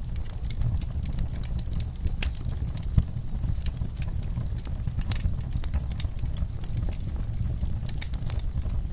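Wood fire crackling, with irregular sharp pops over a steady low rumble of the flames and one louder pop about three seconds in.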